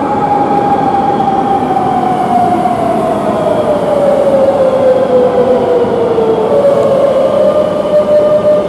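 Madrid Metro train running, its traction motors whining over the rumble of wheels on rail; the whine falls steadily in pitch as the train slows, then jumps to a steady, slightly higher tone about six and a half seconds in.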